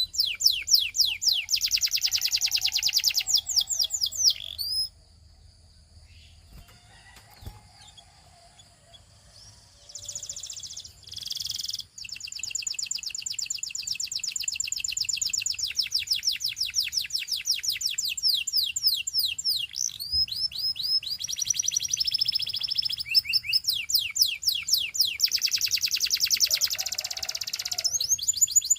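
Canary singing long, rapid trills of repeated high notes. The song stops about five seconds in for several seconds, then starts again and runs on in fast rolls.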